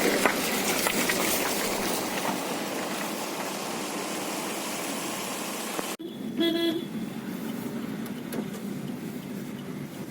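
Steady roadside vehicle noise, cut off about six seconds in, followed about half a second later by one short vehicle horn toot over quieter traffic.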